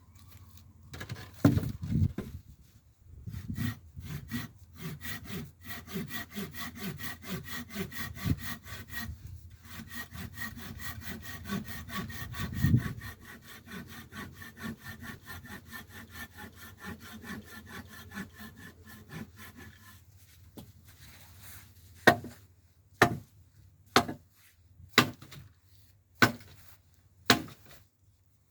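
A saw cutting through scrap wood in steady back-and-forth strokes, with a faint ringing from the blade. After the sawing stops, about seven sharp knocks follow, roughly one a second.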